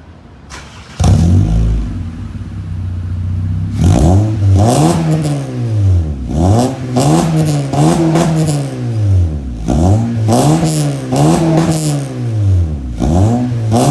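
2011 Honda Civic engine through an aftermarket full exhaust system. It fires up about a second in and idles, then from about four seconds it is blipped repeatedly, the exhaust note rising and falling with each rev.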